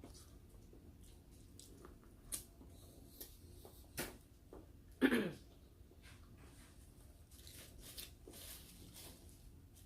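Close-up eating sounds: snow crab leg shells snapping and cracking, with scattered small clicks and mouth sounds between them. The loudest crack comes about five seconds in and is followed by a short falling tone.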